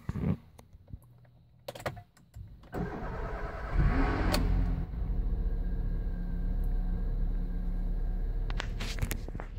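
Volkswagen Fox 1.6 8V (EA111) engine being started: a few clicks, about a second of starter cranking, then the engine catches with a brief surge and settles into a steady idle. This start-up noise is the one the owner is documenting on the nearly new car.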